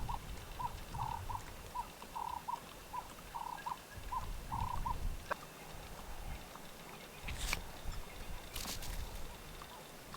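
A run of short, evenly spaced animal calls, about three a second, that stops about five seconds in, over a low rumble of wind on the microphone; two brief rustles follow later.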